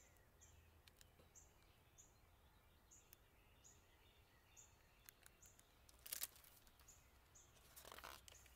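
Faint, repeated high chirps of a small bird, about one to two a second, over quiet outdoor background. A short rustle of a book's paper pages being handled comes twice in the second half.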